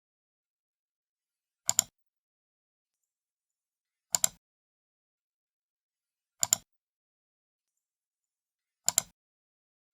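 Computer mouse left button clicked four times, about every two and a half seconds, each a quick double click of press and release with silence between.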